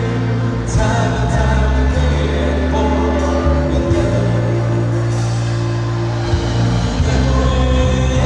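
Live band performing a song with singing over sustained chords and steady bass notes.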